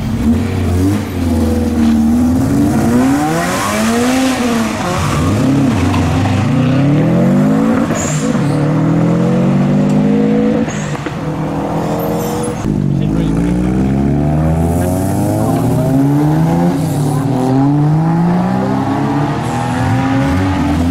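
Car engine revving hard as the car accelerates away, its pitch climbing again and again through the gears, with some tyre squeal.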